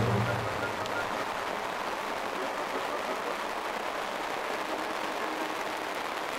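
Steady rain falling on the plastic skin of an inflatable bubble tent, heard as an even hiss. Background music fades out in the first second.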